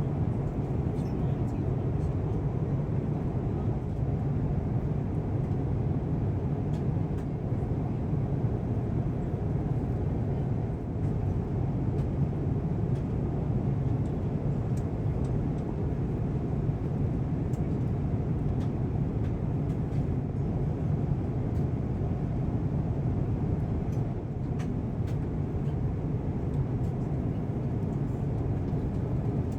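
Steady airliner cabin noise of an Airbus A350-1000 in cruise: an even, low rumble of airflow and engines that does not change, with a few faint ticks.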